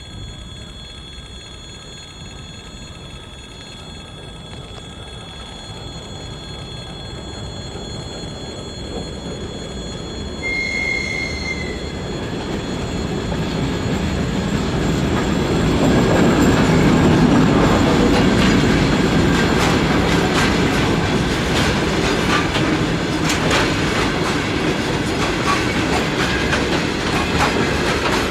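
TEM2 shunting diesel locomotive and loaded coal wagons approaching and passing, the rumble growing steadily louder to a peak about two-thirds of the way through, with a brief high wheel squeal about eleven seconds in. The wheels then click rhythmically over the rail joints as the wagons roll by.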